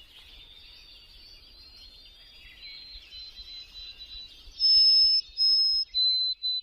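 Many wild birds chirping and twittering together, faint. About four and a half seconds in, a loud clear whistle cuts in: two held high notes, then a run of shorter, slightly lower notes.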